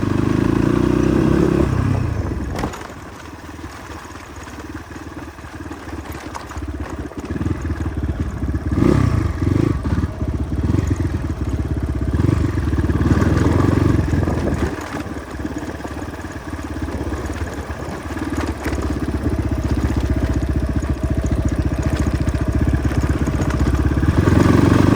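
Motorcycle engine running while being ridden over a rough dirt road, its revs rising and falling with the throttle. The revs drop about two and a half seconds in and build again later, with a few knocks from the bumpy ride.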